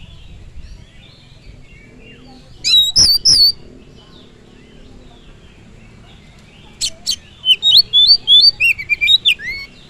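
Oriental magpie-robin (kacer) singing: a short burst of loud warbled notes about three seconds in, then a longer phrase of sharp clicks and varied whistled notes from about seven seconds in. Faint chirping of other birds runs underneath.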